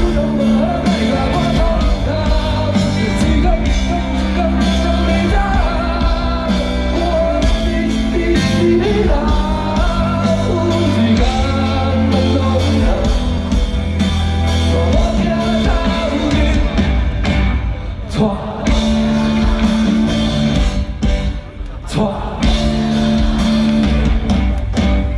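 Live rock band with a lead singer, amplified through a PA system: steady bass and drums, guitar, and sung vocals throughout, with a brief dip in loudness near the end.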